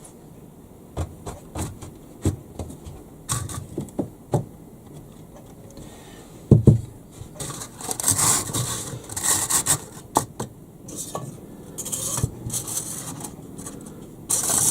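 Model railway parts being handled and set down on a wooden baseboard: irregular clicks, knocks and scraping, with short bursts of rustling.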